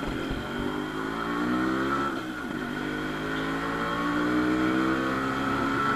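Modified Yamaha RX100's two-stroke single-cylinder engine riding along and accelerating. Its pitch rises, drops at a gear change about two and a half seconds in, then climbs slowly again.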